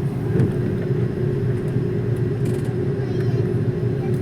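Steady low rumble with a constant hum inside an Airbus A330-300's cabin, its engines at idle before takeoff.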